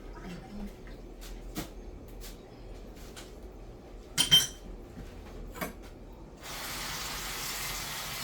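Pots and utensils knocking lightly in a kitchen, with one loud ringing metal clink about four seconds in. About six and a half seconds in, a steady rushing hiss of water from a tap starts suddenly.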